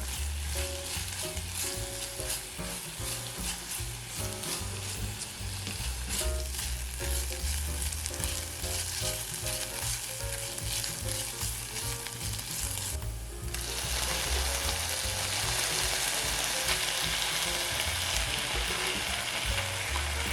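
Vegetables frying in olive oil in a pan while being stirred, the utensil clicking against the pan over a crackling sizzle. About two-thirds of the way through, the sizzle turns into a louder, denser, steady hiss.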